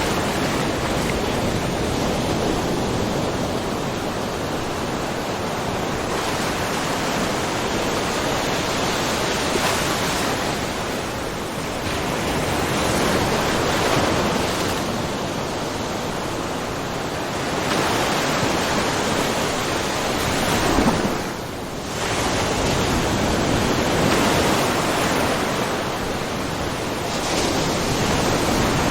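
Small ocean waves splashing and washing over a rocky shoreline, the surf swelling and easing every few seconds, with one brief lull about two-thirds of the way through.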